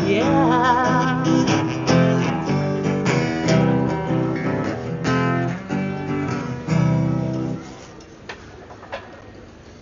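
A street musician's acoustic guitar strumming chords, with a singer holding a wavering "yeah" just after the start. The song ends about three-quarters of the way through, leaving quieter street background with two short clicks.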